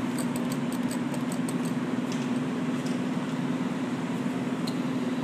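Claw crane machine's steady motor hum as the claw runs, with faint light ticks over the first few seconds.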